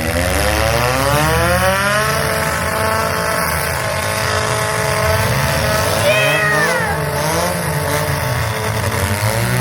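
Demolition derby car engines revving hard: one climbs steeply in pitch over the first two seconds and holds at high revs, while another engine rises and falls about six seconds in.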